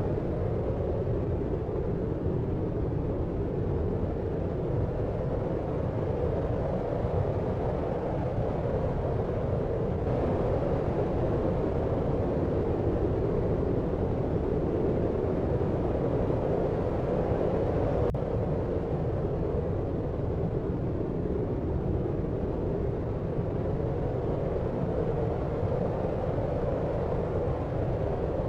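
Deep, steady noise with its weight in the low and lower-middle range and little hiss on top: a muffled, brown-noise-like rumble for sleep, unchanging throughout.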